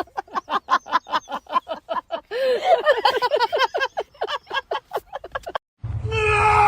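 An animal giving a rapid series of short, pitched calls, about five a second, with several calls overlapping in the middle. Music starts abruptly near the end.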